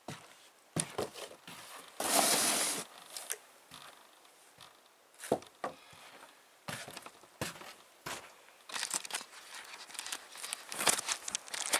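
Snow crunching and scraping in irregular strokes, with one longer, louder scraping rush about two seconds in.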